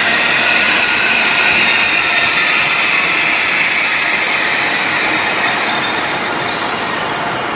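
ICE high-speed electric train rolling slowly past at close range, with a steady rumble and a high, sustained squeal from the wheels. The sound eases off slightly near the end as the rear of the train passes.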